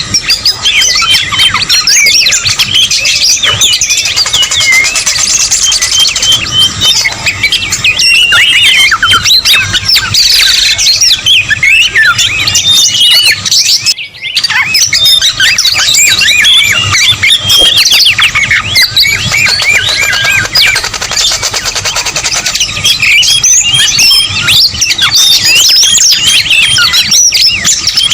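A busy, overlapping chorus of many songbird whistles, chirps and squawks from a bird-lure recording of whistler-type birds, with quick rising and falling notes packed closely together. The sound breaks off for a moment about halfway through, then resumes.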